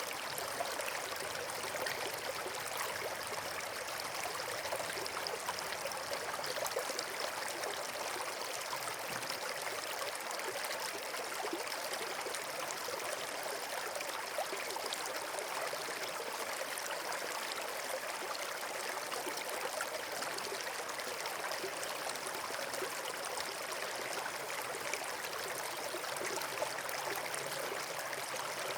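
Steady running water, like a stream or small waterfall, rushing evenly without let-up.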